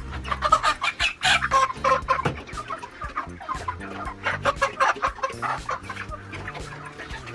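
A flock of five-week-old broiler chickens clucking and calling together, many short calls overlapping.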